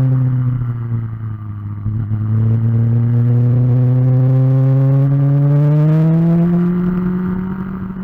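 Sport-bike engine under way on a race track: the revs drop over the first second or so as the bike slows for a corner, hold lower through the turn, then climb again about six seconds in as it accelerates out.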